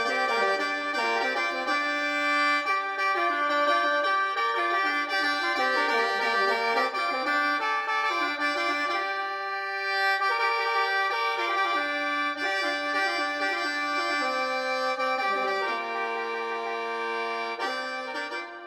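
Khaen, the Lao bamboo free-reed mouth organ, playing a melody over held drone notes.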